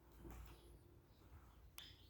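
Near silence: faint room tone with a low hum, and a single short click near the end.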